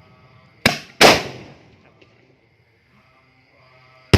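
Two sharp firework bangs, the second about a third of a second after the first, about a second in, each dying away over roughly half a second. Another bang comes right at the end. The fireworks are fired by an electric remote-control ignition system.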